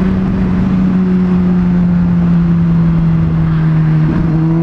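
Honda CBR600RR's inline-four engine running at a steady cruise, its note easing slightly lower, then starting to climb near the end as the throttle opens, with wind rumble on the helmet microphone.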